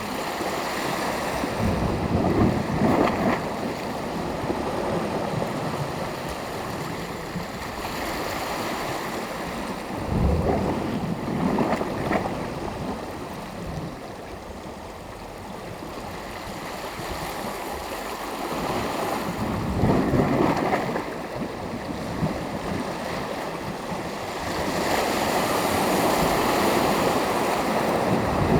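Small waves breaking and washing on the shore, the surf swelling louder about every eight to ten seconds, with a steady wash of sea noise between.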